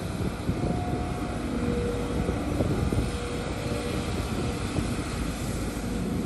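Heavy diesel earthmoving machinery running steadily: a deep, continuous engine rumble with faint steady tones above it.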